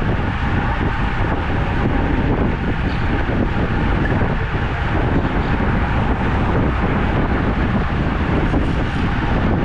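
Wind rushing over the microphone of a camera carried on a moving road bike: a loud, steady rush strongest in the low end.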